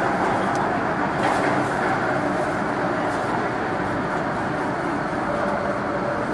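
MTR M-train electric multiple unit running on the line, heard from inside the car as a steady rumble of wheels on rail and running noise.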